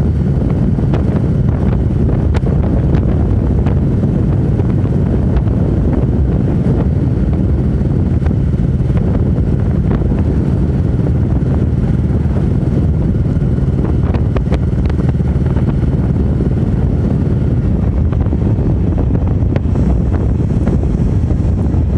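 Motorcycle riding at road speed with wind buffeting the microphone: a loud, steady low drone of engine and wind.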